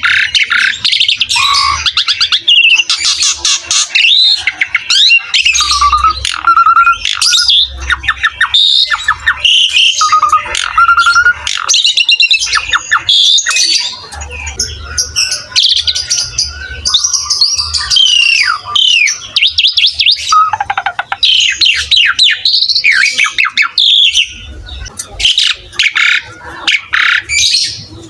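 Asian pied starling (jalak suren) singing non-stop in full song: a varied, unbroken run of clear whistled glides mixed with rapid chattering notes.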